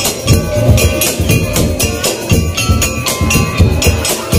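Madurese daul (tongtong) percussion ensemble playing a fast, driving beat: heavy drum hits under jingling, tambourine-like metal and short tuned metallic tones.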